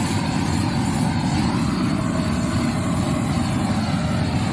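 A vehicle engine running steadily at idle, a constant low rumble with no change in pitch or loudness.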